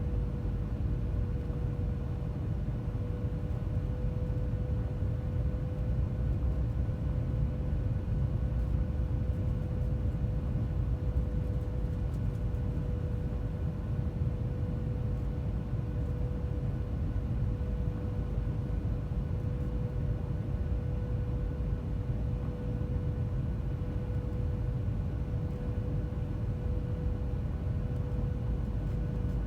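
Cabin noise inside a Boeing 737-900ER: its CFM56 jet engines run steadily, giving a deep rumble with a single steady whine above it.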